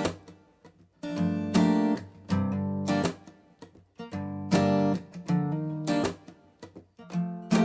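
Background music: acoustic guitar strumming chords, with short pauses between phrases.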